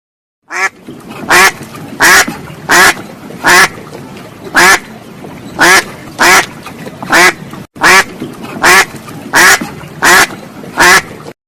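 A duck quacking over and over, about fourteen short quacks at a little more than one a second, over steady background noise.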